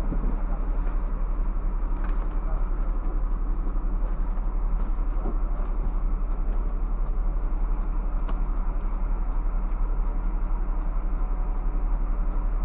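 Scania bus heard from inside the cabin: a steady low drone of the engine and running gear, with a few faint clicks and rattles.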